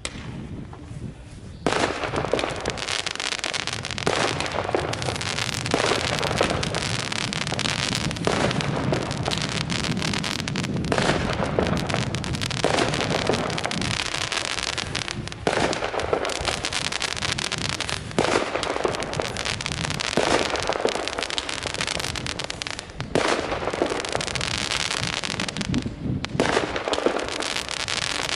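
Compound fireworks battery firing. It starts about two seconds in, then goes on as an unbroken run of crackling, with a new loud shot every second or two.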